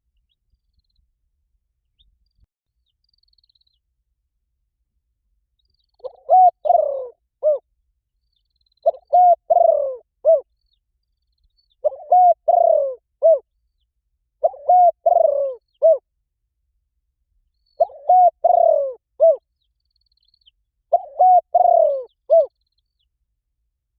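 Spotted dove cooing: six repeated phrases of several low notes, coming about every three seconds and starting about six seconds in.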